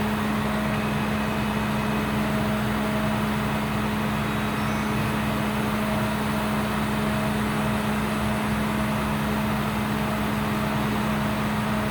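2008 International crane truck running steadily, a constant, unchanging hum.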